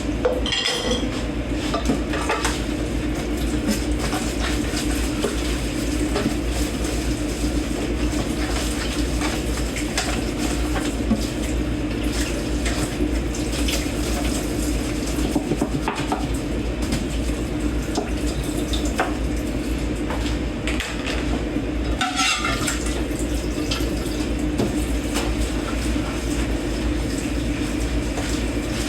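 Dishes and cutlery being washed by hand in a kitchen sink: a steady wash of running water with frequent clinks and clanks of plates and forks knocking together.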